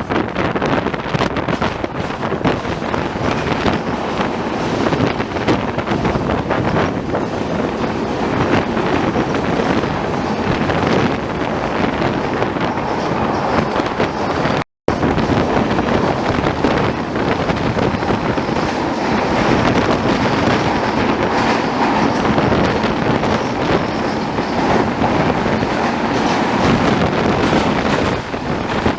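Moving passenger express train heard from aboard: a steady rumble of wheels on rails and coach noise, mixed with rushing air. The sound cuts out for a split second about halfway through.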